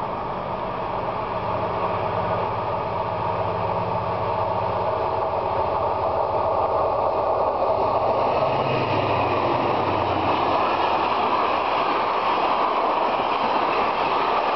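Diesel locomotives at the head of a container freight train approach and pass with a steady low engine hum, which fades about ten seconds in. The even rolling noise of the container wagons' wheels on the rails builds and carries on loud to the end.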